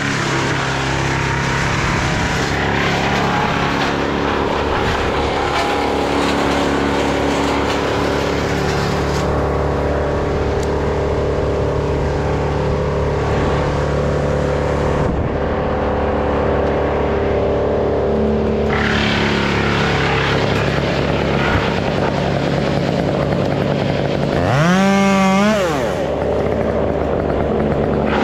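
Stihl MS 201 two-stroke chainsaw running steadily at an even pitch, then briefly revved hard about three and a half seconds before the end, its loudest moment, before settling back.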